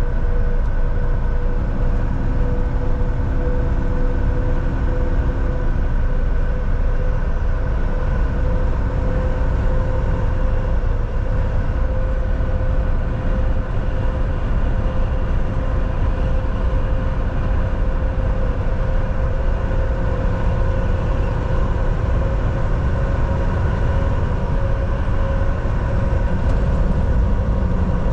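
Volvo VNL 760 semi truck driving at a steady speed, heard from inside the cab: a steady engine and road rumble with a constant whine over it.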